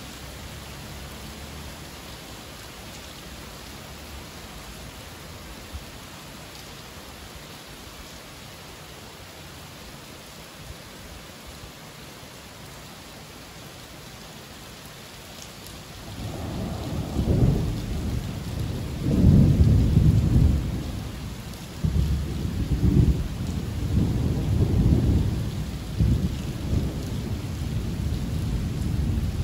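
Steady summer rain hissing down, then about halfway through a long roll of thunder rumbles in, swelling and fading several times over the rain.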